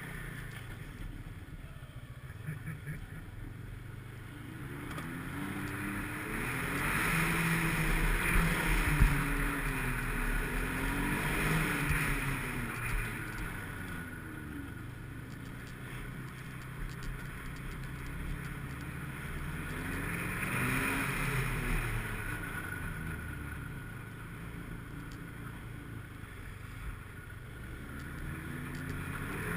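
Snowmobile engine running under way, its pitch rising and falling with the throttle. It swells louder twice, for several seconds about a quarter of the way in and again about two-thirds through.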